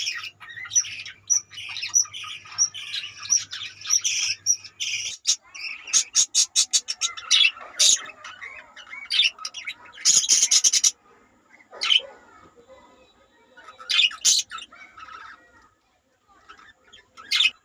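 A flock of budgerigars chirping and chattering, dense for the first five seconds, then thinning to scattered sharp calls and clicks with a loud noisy burst about ten seconds in.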